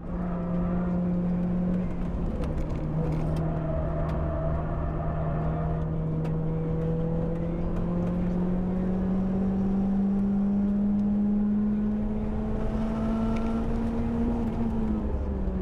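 Car engine running hard at high revs. Its note drops about two seconds in, then climbs slowly and steadily for about twelve seconds before falling away near the end.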